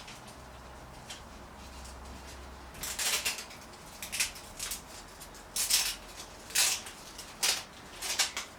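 Tools and small brake-bleed parts being handled on a workbench: a series of short, sharp clicks and clatters, about nine of them, starting about three seconds in.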